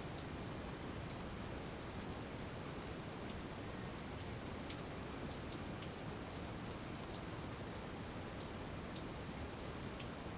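Steady rain falling, a constant hiss with many scattered light drip ticks of drops striking a surface.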